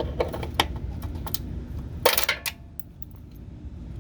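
Small clicks and taps of a screwdriver and needle-nose pliers working a plug out of a pickup's body panel, then a brief louder clatter about two seconds in as a small part drops down inside the panel.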